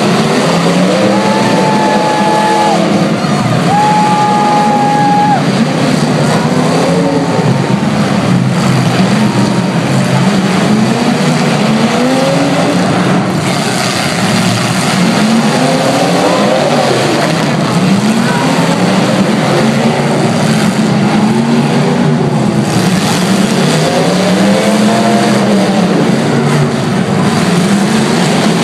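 Demolition derby cars with several engines revving up and down at once over a loud steady din. Two short held tones sound near the start.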